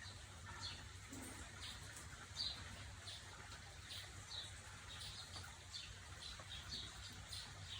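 Faint bird chirping: short, slightly falling chirps repeated about twice a second, over a low steady hum.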